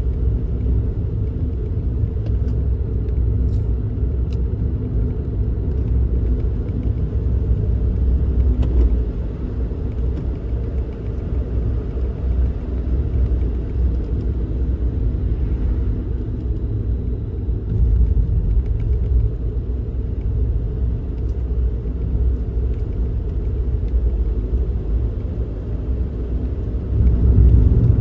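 Suzuki Kei Works being driven: a steady low rumble of road and engine noise, swelling a little a few times as it goes.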